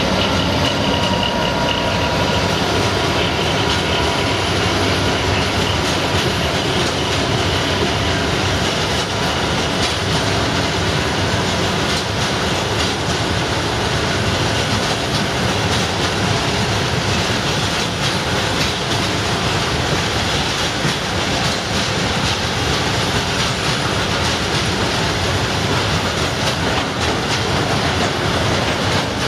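Train running on the rails close by: a steady rumble of wheels on track with rapid clicking, and a faint wheel squeal that dies away in the first few seconds.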